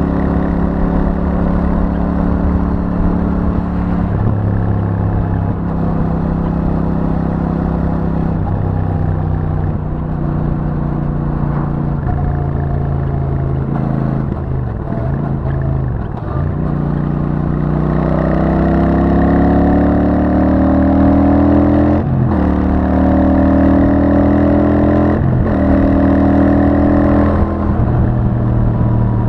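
Royal Enfield Super Meteor 650's 648 cc parallel-twin engine running through its stock exhaust, engine speed steady with a few brief dips. A little past halfway it pulls harder, the pitch rising and the note getting louder, broken by short drops in pitch as it changes gear.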